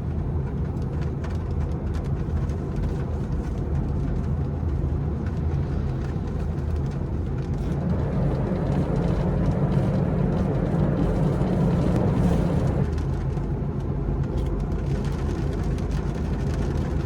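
Honda Mobilio car driving: a steady low engine and road rumble that grows louder about eight seconds in and drops back suddenly about five seconds later.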